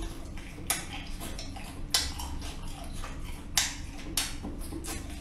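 Chewing a mouthful of chewy canned sea snail meat: a few sharp, irregular wet clicks and smacks spread across several seconds.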